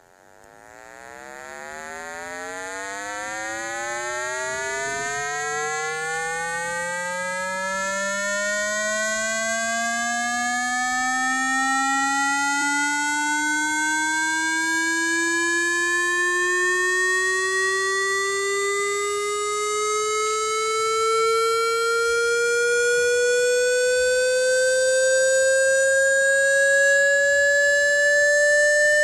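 Electronic tone sweep of the kind played to shake water out of a phone speaker: a buzzy tone with many overtones that fades in over the first few seconds, then climbs slowly and steadily in pitch, like a slow siren.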